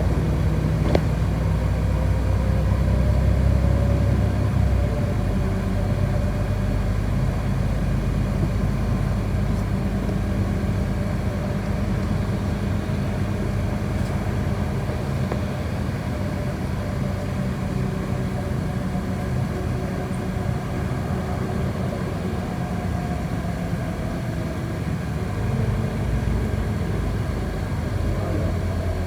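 City bus heard from inside the passenger cabin while driving: a steady low engine hum with road and tyre noise, a little louder in the first few seconds.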